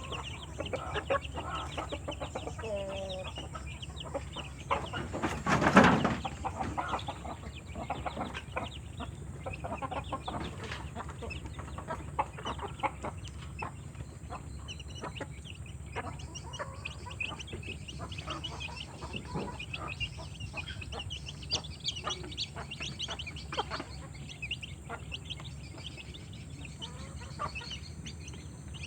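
Village chickens clucking as they feed, with many short taps and clicks throughout and one louder burst about six seconds in.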